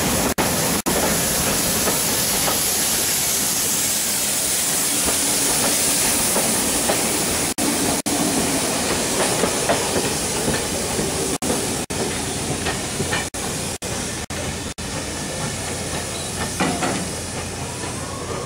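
Passenger coaches of a steam-hauled train rolling past on the rails, with steam hissing from beneath the carriages; the sound slowly fades as the train draws away. Several very short dropouts break the sound.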